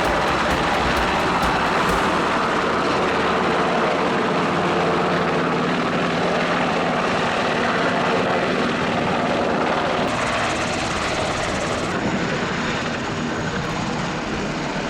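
Military helicopter rotor and turbine engine noise, steady and loud, with a regular rotor beat in the first couple of seconds and a high steady whine joining about twelve seconds in.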